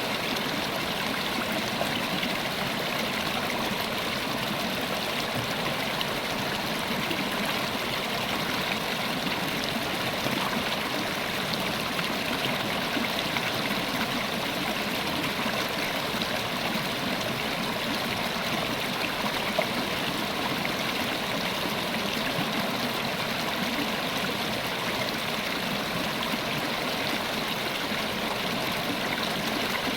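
River water flowing over rocks, a steady rushing and babbling stream with no pauses or changes.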